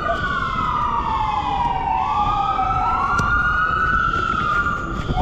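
Fire truck siren wailing: one long tone that slides slowly down in pitch, then climbs back up about halfway through, with street noise underneath.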